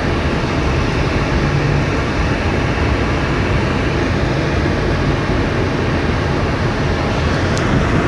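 Heavy rain pouring down: a steady, loud rushing noise with a deep rumble underneath.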